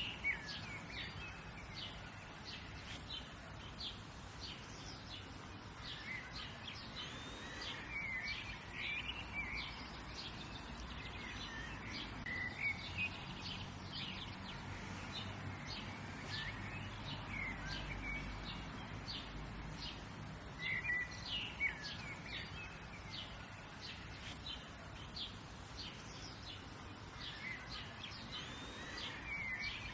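Several small birds singing and chirping, many short high notes and warbling phrases coming and going over a steady low background hiss.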